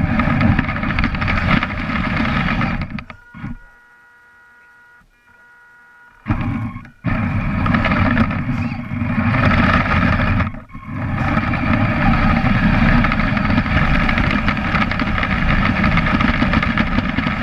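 Kyosho Blizzard RC tracked vehicle's electric drive running, heard from a camera mounted on the vehicle: a steady gear whine over a heavy rumble from the tracks. It stops for about three seconds around 3 s in, leaving only a faint whine, and cuts out briefly near 10 s before running on.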